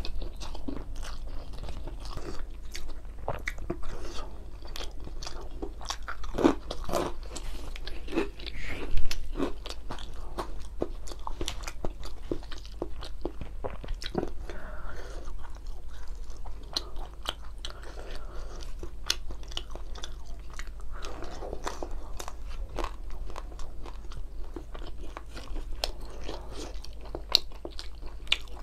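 A person chewing mouthfuls of Padang rice with grilled fish and sambal close to the microphone: many wet smacking and clicking mouth sounds, loudest about nine seconds in, over a faint low hum.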